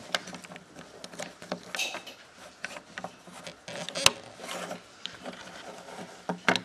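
Plastic Lego parts being handled and fitted together: scattered clicks and rubbing, with one sharper click about four seconds in.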